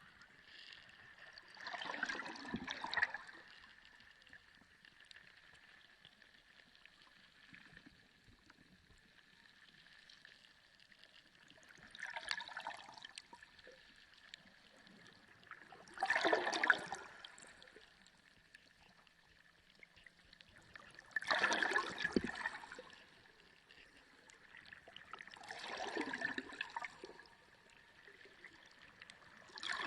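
Sea water heard underwater: surges of gurgling, rushing water lasting a second or two, coming every few seconds over a faint steady high hum.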